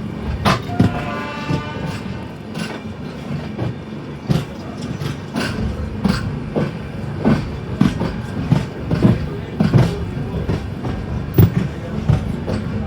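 Ganga Sutlej Express passenger train running, its wheels knocking irregularly over rail joints above a steady rumble. A brief steady tone, like a distant horn, sounds about half a second in and lasts about a second.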